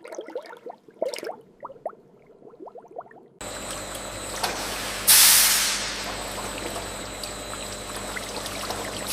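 Faint drips and ticks of liquid, then steady processing-machinery noise starts suddenly, and a loud hiss bursts out about five seconds in and fades over about a second.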